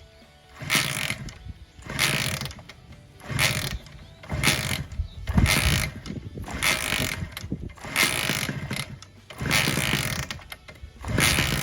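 Honda NSR50's 49 cc two-stroke single-cylinder engine running roughly in repeated surges about once a second, rising and falling rather than holding a steady idle. The uneven running comes from a bad carburetor.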